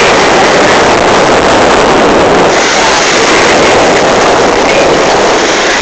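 Jet ski running at speed: a loud, steady rush of engine and water noise.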